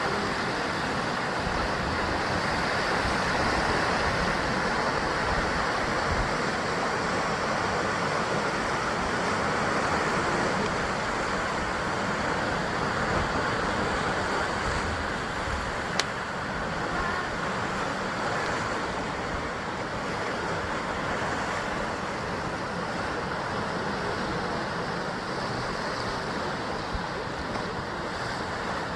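Ocean surf washing against a basalt rock coast, a steady rush of breaking waves that swells and eases slowly. A single sharp click about halfway through.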